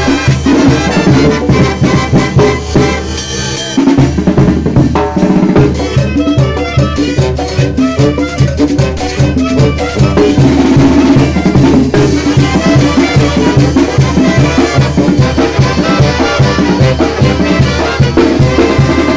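Mexican banda playing an upbeat Latin dance tune: drum kit with snare over a pulsing bass on a steady beat, with layered wind melody above. The bass drops out for a moment about four seconds in, then the groove comes back in.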